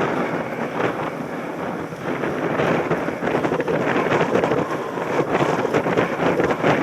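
Wind buffeting a helmet-mounted camera's microphone while riding a mountain bike at speed, with a steady rushing and many small rattles and jolts from the bike rolling over a rough track.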